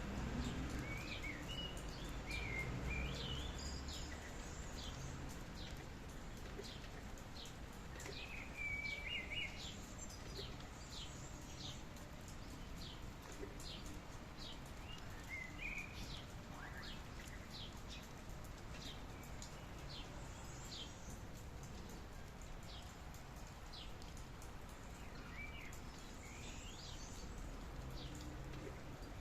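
Steady rain hiss with birds calling over it: short chirps repeating throughout and a few warbling phrases. A low rumble sounds during the first few seconds.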